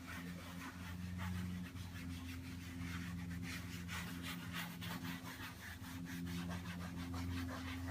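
Leather conditioning lotion being rubbed into leather car upholstery by hand, a run of quick, repeated rubbing strokes over a steady low hum.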